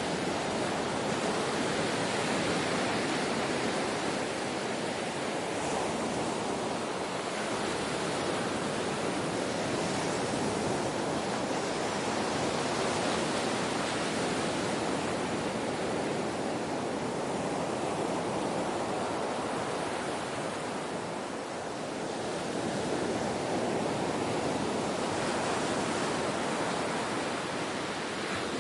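Ocean surf: a continuous wash of breaking waves that slowly swells and eases.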